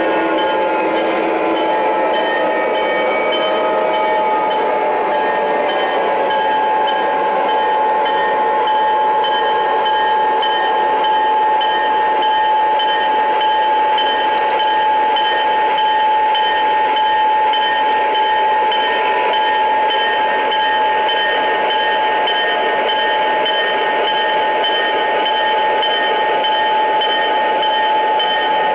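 O-scale model diesel locomotives running under their ProtoSound 2 sound systems. The sound is a steady diesel engine drone with a constant high whine, over wheel and track noise with faint regular clicking.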